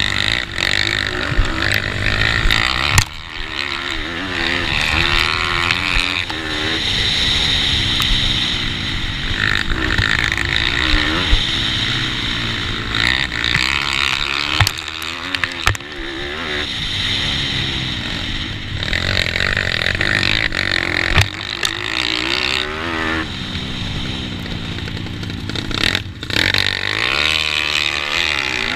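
Racing pitbike engines, single-cylinder four-strokes, revving hard and falling back again and again as they are ridden through corners and gears, with a steady rushing noise over them.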